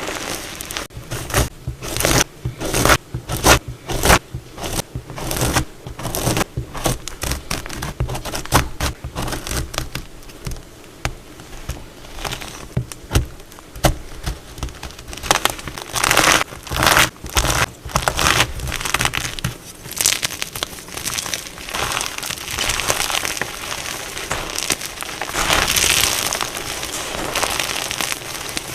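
Block of plain gym chalk being cut and crushed: crisp crunching and crumbling in many quick irregular strokes, turning into a denser, more continuous crumble near the end.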